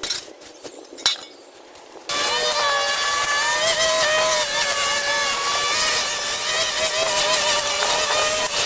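A few faint clicks, then about two seconds in a motor cuts in abruptly and runs loudly and steadily to the end with a wavering whine.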